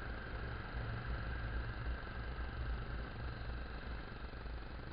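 Motorcycle engine running steadily, a low rumble with a faint hiss over it.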